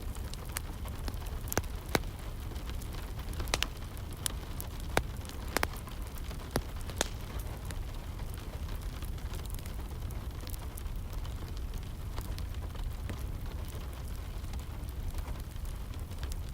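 Wood fire crackling with sharp pops, several in the first half and fewer later, over a steady hiss of rain.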